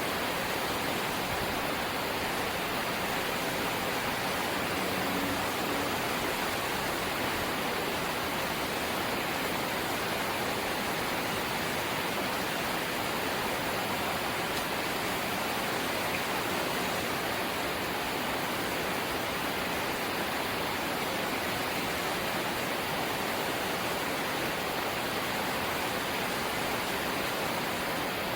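Steady rain falling on a house's corrugated zinc sheet roof, an even, unbroken hiss.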